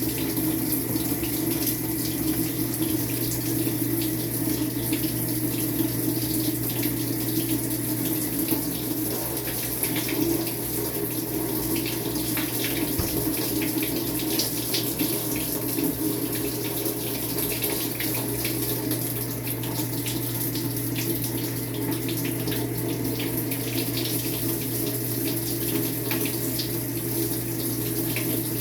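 Maytag MVWX655DW1 washing machine running its tub clean cycle: water rushing steadily in the tub, over a constant low hum.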